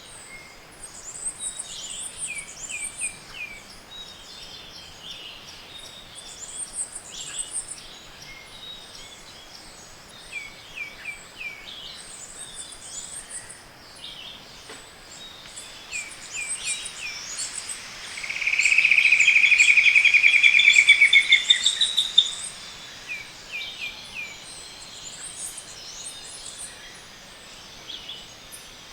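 Chorus of tropical forest birds: many short high chirps and little runs of repeated notes from several species. About two thirds of the way through, one bird gives a loud, fast trill of about four seconds.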